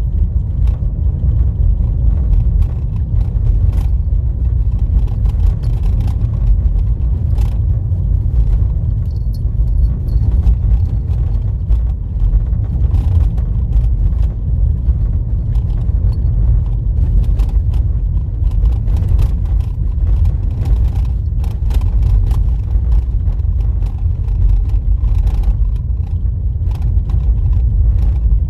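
Car driving on a rough dirt road, heard from inside the cabin: a steady low rumble of tyres and running gear, with scattered clicks and knocks throughout.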